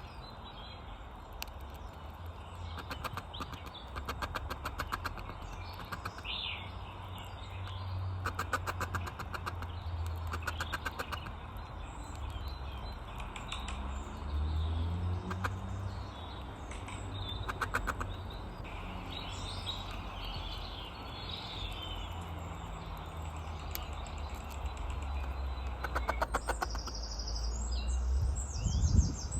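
Small garden birds chirping now and then, with short runs of rapid clicking several times, over a steady low rumble.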